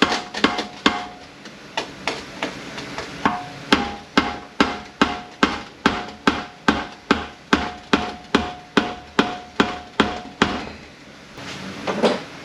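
Steady hammer blows on the output flange of a Mercedes 722.118 automatic transmission, about two a second, knocking the stuck flange loose from the output shaft. Each blow rings metallically. There is a short pause near the start, and the blows stop about ten seconds in.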